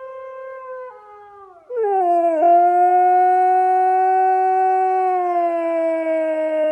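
A dog howling: a quieter note for about the first two seconds, then one long, loud howl that slowly sinks in pitch.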